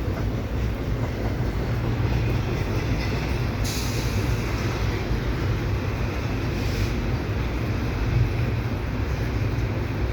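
Long CP double-stack intermodal freight train passing, a steady low rumble of its well cars rolling over the rails, mixed with the hiss of heavy rain. A brighter high hiss comes up for about three seconds in the middle.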